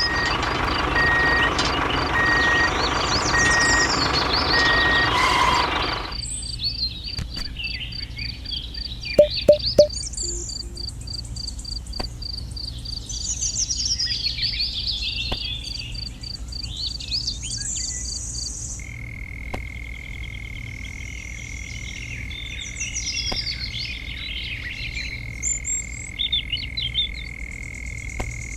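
Rural nature sounds: birds chirping, an insect ticking rapidly and a steady high insect whine in the second half, with three short loud frog croaks about nine seconds in. A louder dense noise covers the first six seconds.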